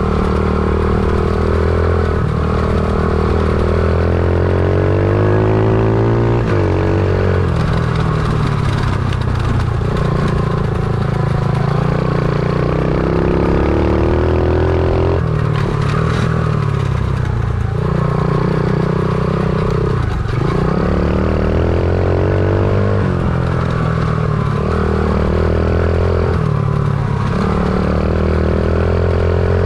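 Stomp pit bike's small single-cylinder four-stroke engine being ridden hard. It revs up in rising sweeps, drops back with each gear change or throttle lift, and climbs again, over and over.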